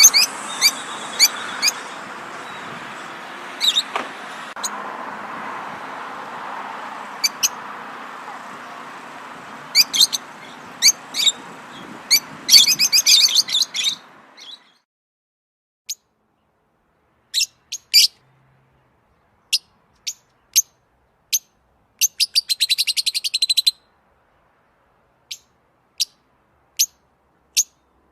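Songbirds chirping: many short, high chirps and a few rapid trilled runs. For the first half they sit over a steady background hiss that stops abruptly about halfway, leaving only the chirps over silence.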